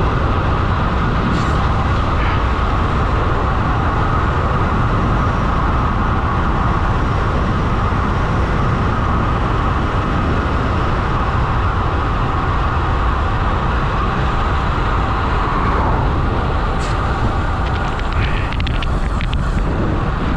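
Wind roaring steadily over the microphone of a road bike descending at about 80 km/h.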